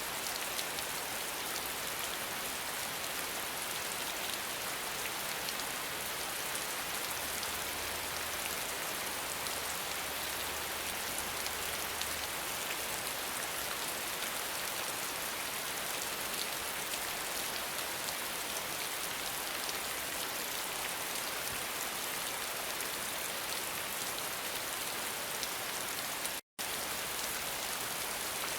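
Steady rain falling, an even hiss with no thunder. The sound cuts out completely for a split second near the end.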